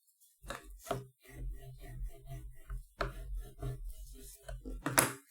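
Hands handling and rubbing paper and foil on a work surface: irregular rustling and scraping with small knocks, and one sharp knock near the end.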